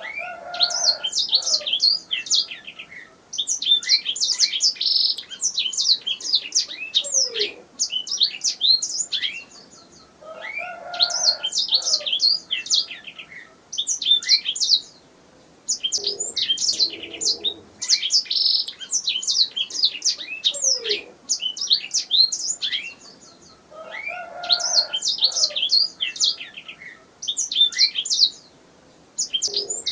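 Domestic canary singing: long phrases of rapid, high trills and chirps, a few seconds each, broken by short pauses and repeated throughout.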